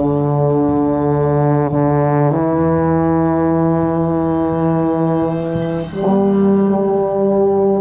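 Brass ensemble holding long sustained chords, with the lead low-brass horn loud and close on the microphone. The chord shifts twice around two seconds in and again about six seconds in.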